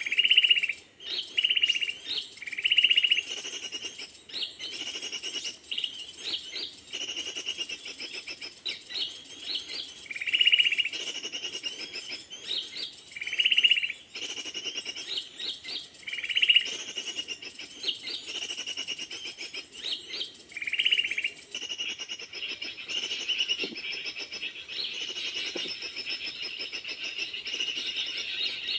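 Several birds chirping and calling together. A loud, clear note comes back every few seconds and stops about two-thirds of the way through, after which the chirping runs on more continuously.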